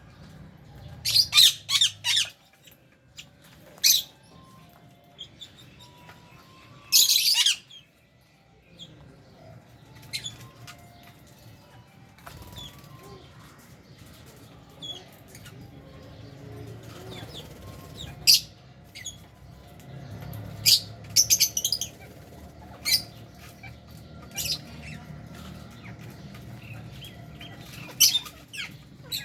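A flock of lovebirds and budgies in an aviary, giving short, shrill chirps and squawks in scattered bursts, with fluttering wings. There is a faint steady background of softer chatter.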